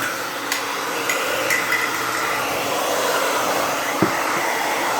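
BabylissPro Turbo Extreme 1875-watt hair dryer blowing steadily on its high-speed setting, with a few brief clicks mixed in.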